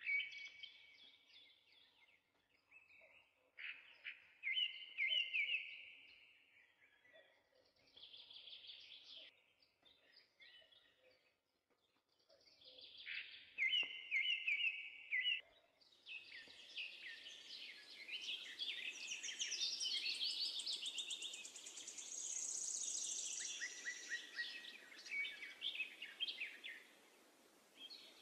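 Birds chirping and singing in short repeated phrases, quietly. About halfway through they become a denser, continuous chorus over a steady high hiss.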